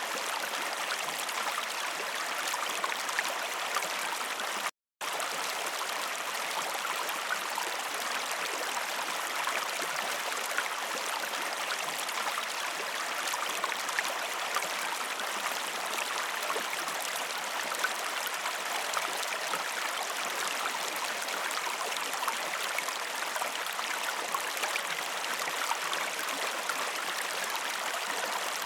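Waterfall rushing steadily, an even wash of falling water with small splashes scattered through it. The sound cuts out completely for a split second about five seconds in.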